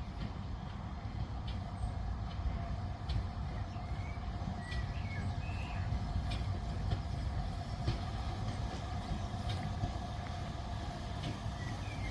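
Train running on the line: a steady low rumble with a faint hum and light clicks about once a second.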